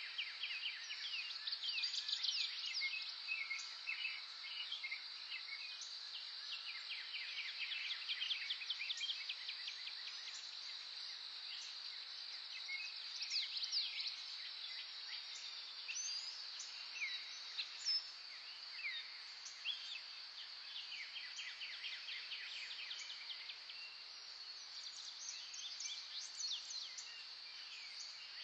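Wild birds singing and calling together, with rapid trills and quick chirps overlapping throughout, over a steady high-pitched drone.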